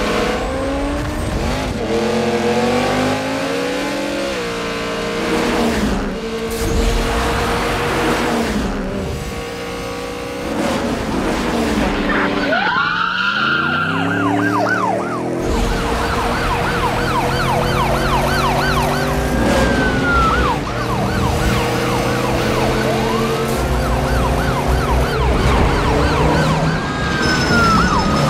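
Car-chase sound: car engines revving up and down with tyre skids, then police sirens yelping rapidly from about halfway through, with a long rising and falling wail a couple of times over the yelps.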